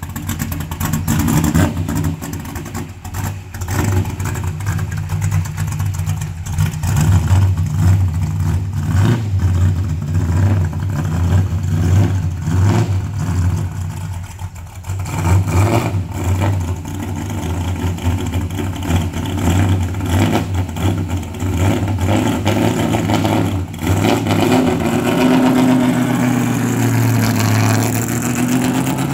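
1965 Mustang GT350R tribute race car's V8, run through a side-exit exhaust, running at a lumpy, pulsing idle with throttle blips while still warming after a cold start. Near the end the engine note rises and swells as the car pulls away and passes close by.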